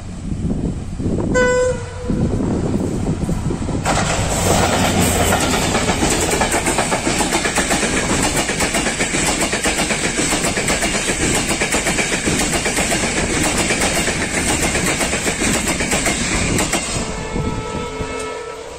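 Sri Lanka Railways M11 diesel locomotive gives a short horn blast about a second and a half in. Then the locomotive and its ICF coaches pass close by, wheels clattering over the rail joints in a long, dense run of clicks. Near the end the clatter eases off as the last coach moves away.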